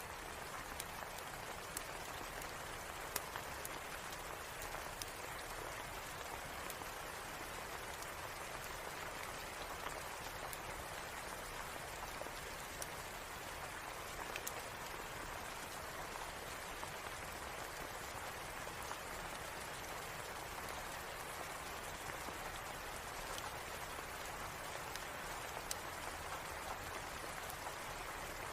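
Steady rain with occasional sharp crackles and pops from a log fire in a fireplace.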